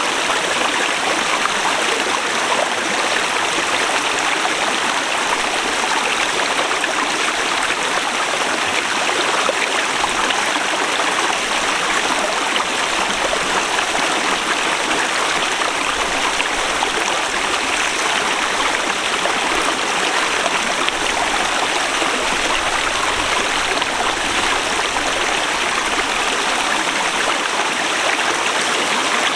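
Forest river flowing over rocks: a steady rushing of water.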